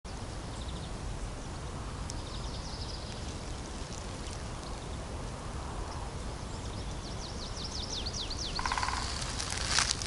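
Wild songbirds singing: scattered high chirps, then a quick run of falling notes toward the end, over a steady low rumble. A sharp crackle just before the end.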